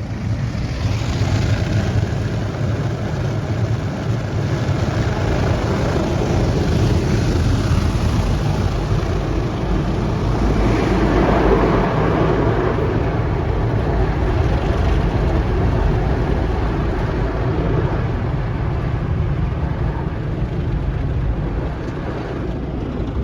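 Automatic car wash heard from inside the car's cabin: a steady loud rush of water spray and wash machinery against the car body, with a low rumble, swelling for a few seconds around the middle.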